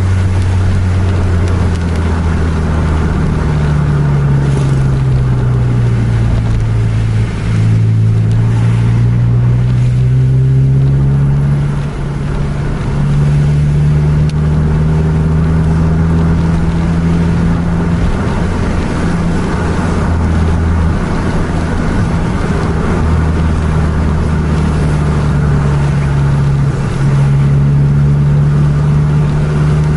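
Car engine running steadily, heard from inside the cabin over tyre noise on a wet road. Its pitch sinks over the first few seconds, climbs again, and holds, with a brief dip in loudness about twelve seconds in.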